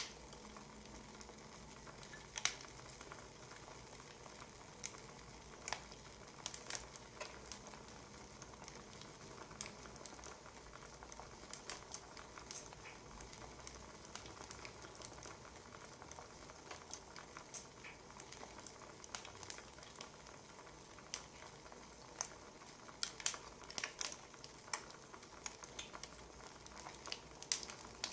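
Wood fire crackling quietly: a steady low hiss with irregular sharp pops and snaps, coming more thickly about three-quarters of the way through.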